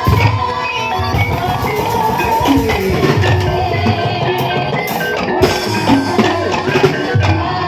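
Live ebeg gamelan music: drums beating a steady rhythm under ringing pitched percussion.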